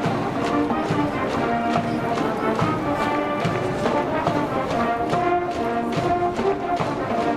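High-school brass band playing a baseball cheering tune, held brass chords over a steady drum beat.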